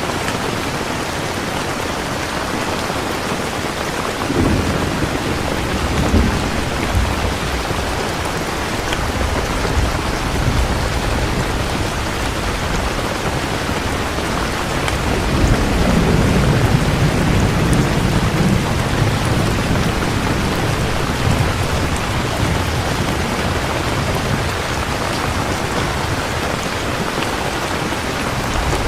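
Steady heavy rain with low rolling thunder: short rumbles about four seconds in, then a longer, louder rumble in the middle.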